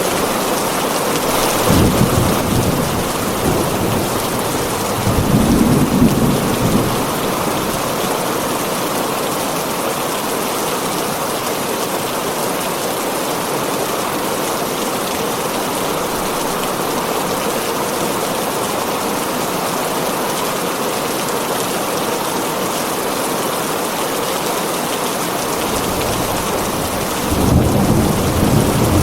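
Heavy rain falling steadily on a tin roof, with low rolls of thunder about two seconds in, around six seconds in, and again near the end.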